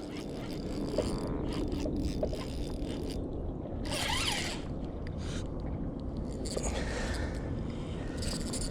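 Fishing reel being cranked with a mechanical ratcheting whir while a hooked bass is reeled in.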